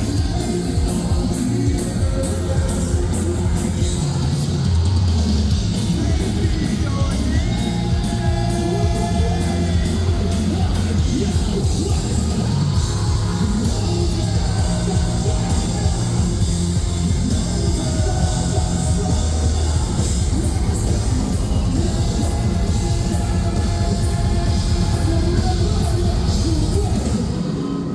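Live metalcore band playing loudly: distorted guitars, bass and dense drumming with vocals, heard through a festival PA.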